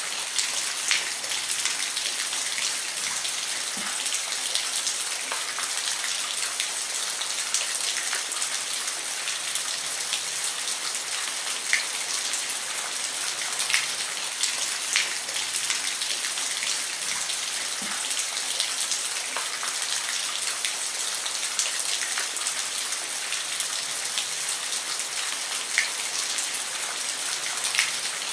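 Steady rain falling on a roof: an even hiss with separate drops ticking sharply through it now and then.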